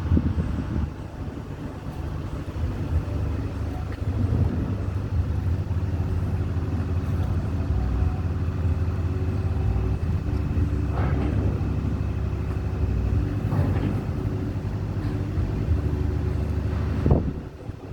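A large engine running steadily with a low drone. There are a few knocks in the middle, and a sharp knock near the end, after which the drone cuts off suddenly.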